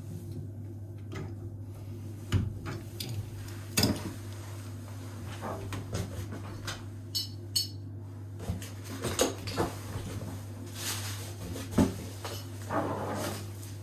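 Metal tools and faucet fittings clinking and knocking at irregular intervals during a bathroom faucet replacement, over a steady low hum.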